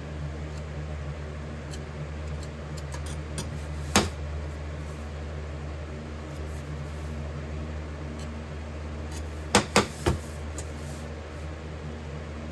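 Steady low hum of a Toauto melting furnace running while copper melts, with one sharp knock about four seconds in and three quick knocks in a row near the ten-second mark.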